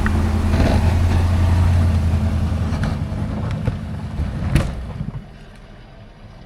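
Engine of a snowplowing vehicle running close by with a steady low drone that fades away about five seconds in. A single sharp knock sounds shortly before it fades.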